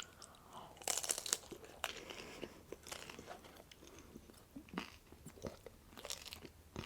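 A person chewing crunchy food, faint crackling bites in irregular clusters, loudest about a second in.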